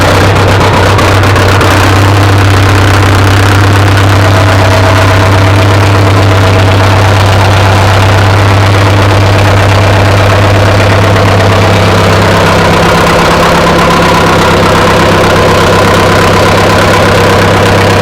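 John Deere 1010's four-cylinder gasoline engine idling steadily just after a true cold start, choke pulled. Its note changes slightly about two-thirds of the way through.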